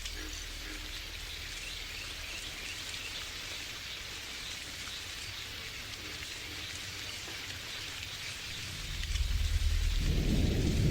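Steady rain falling, with a low rumble of thunder coming in about nine seconds in and growing louder near the end.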